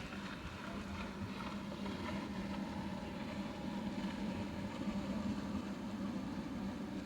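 An engine running steadily, a constant low hum under a noisy rush that may be wind or water.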